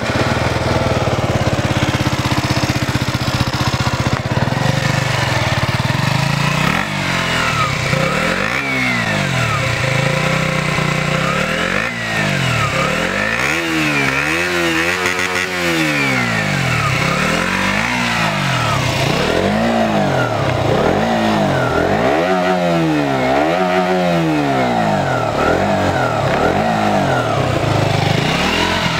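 KTM Duke 125's single-cylinder four-stroke engine through its stock exhaust, idling steadily at first, then revved again and again with quick throttle blips, a few of them held to higher revs before dropping back to idle.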